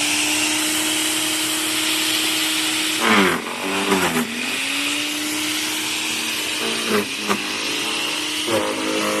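Proyama electric wood chipper running at speed, its motor tone dipping in pitch under load with sharp cracking as green branches are fed in and chipped, about three seconds in and again several times near the end.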